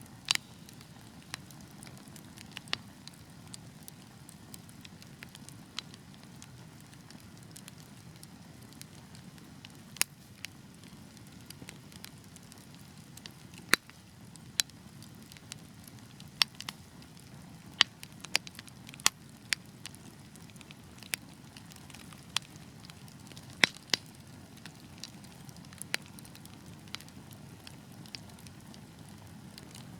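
Wood fire burning with a steady low rumble and sharp, irregular crackles and pops, a few per second at most, clustering more thickly in the second half.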